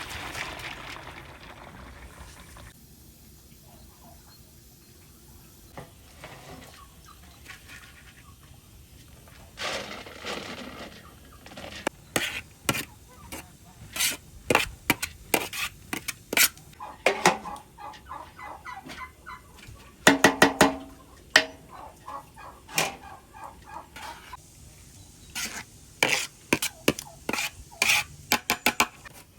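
Domestic turkeys gobbling in repeated short rattling bursts, loudest about two thirds of the way through.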